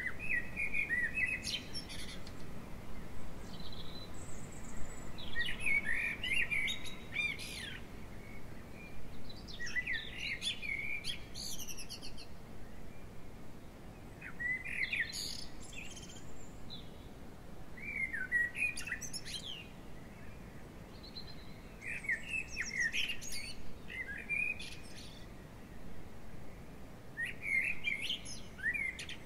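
A songbird singing short, varied twittering phrases of one to two seconds each, repeating about every four seconds, seven times in all.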